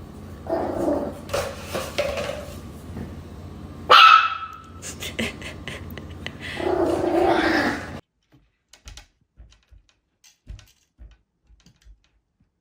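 A dog barking and yelping several times over a low background hum. The sound cuts off abruptly about two-thirds of the way through, leaving only a few faint taps.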